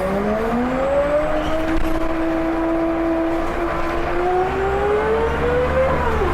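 Scania L94UB single-deck bus accelerating on its ZF automatic gearbox: engine and driveline whine rising in pitch as it pulls through a gear, then falling sharply at an upshift near the end, over a steady low rumble.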